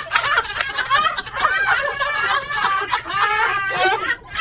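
A person laughing hard at a joke, in continuous wavering, high-pitched peals.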